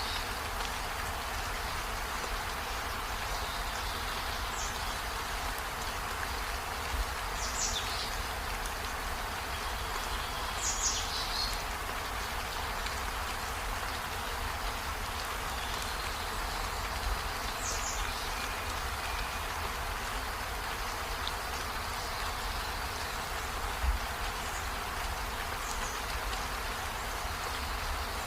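Steady rain falling, an even hiss, with a few short high chirps every few seconds, most of them in the first twenty seconds.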